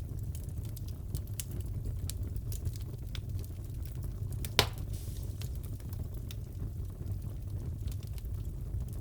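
Wood fire crackling in a fireplace: scattered small snaps and pops over a low steady rumble, with one loud pop about four and a half seconds in.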